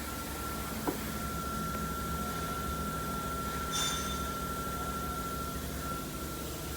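Steady mechanical running with a constant high whine, plausibly the Subaru EJ253 flat-four being turned over for a compression test. A sharp click about a second in and a short hiss near four seconds.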